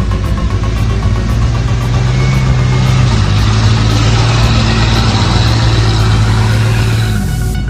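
A vehicle engine running hard with a steady drone, its pitch dropping as it eases off near the end.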